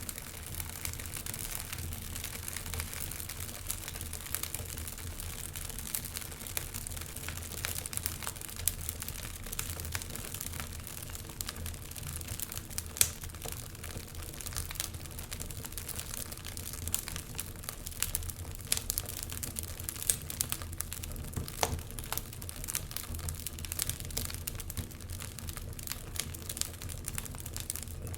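Wood fire crackling in a fireplace: irregular snaps and pops over a steady low rumble, with one louder pop about 13 seconds in.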